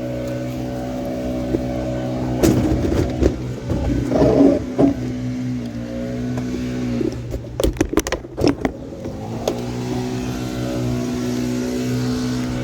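Vehicle engine running steadily. Its pitch drops and fades about seven seconds in, then comes back and rises about two seconds later. Knocks and rattling clatter sound twice, between about two and five seconds in and around eight seconds in.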